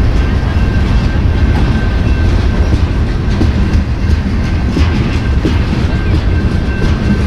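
Freight train cars rolling past with a steady heavy rumble and the clickety-clack of wheels over the rail, plus a thin, faint high ring that comes and goes.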